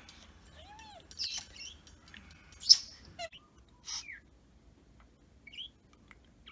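Pet budgerigar chirping in short, high, separate calls with pauses between them, the loudest a sharp chirp a little before the middle, and only a few scattered chirps in the second half.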